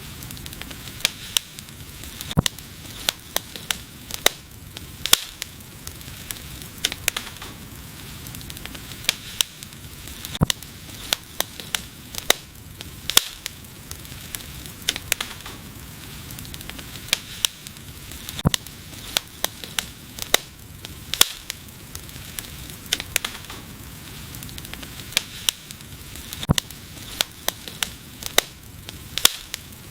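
Wood fire crackling: frequent sharp, irregular snaps and pops over a steady hiss of burning.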